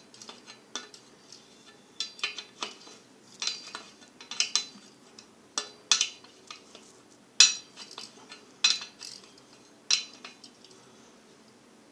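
Metal parts and tools being handled during a gas water heater repair: irregular light metallic clinks and knocks with short scrapes, one or two a second, the louder ones about 6, 7.5 and 10 seconds in.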